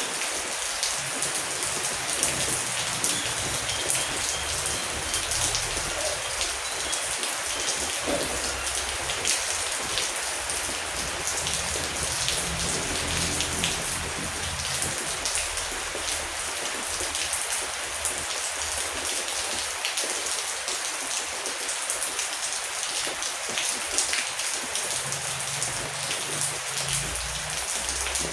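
Heavy rain falling steadily: a dense, even hiss with individual drops tapping on a surface.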